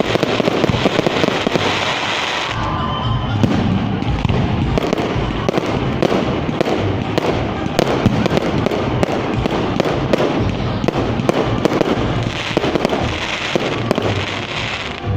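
Fireworks display going off in a continuous barrage of rapid bangs and crackles, with a hissing crackle near the start and again near the end.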